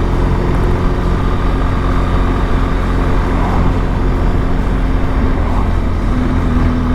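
Motorcycle engine running steadily while riding along a road, its pitch holding even.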